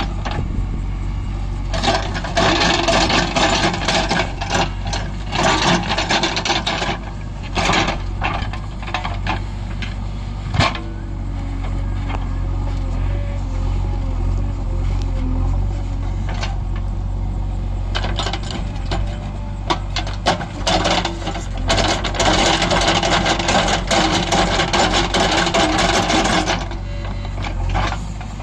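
JCB 5DX backhoe loader's diesel engine running steadily, with two long spells of loose stone rattling and scraping against the steel bucket: one a couple of seconds in and a longer one in the second half.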